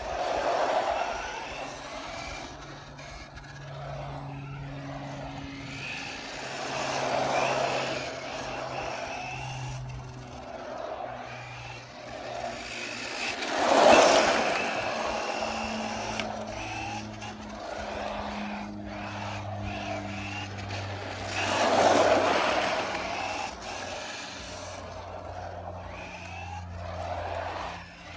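Electric 1/10 scale RC short course truck driving on pavement, its motor whining and tyres hissing, with several passes that swell and fade, the loudest about halfway through and again near the end.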